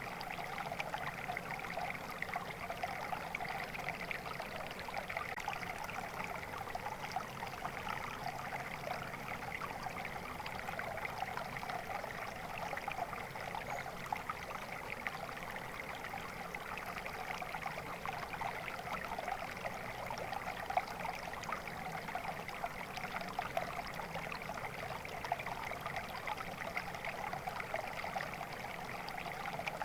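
Water flowing and babbling steadily over stones in a stream, an even rushing sound with fine splashing detail.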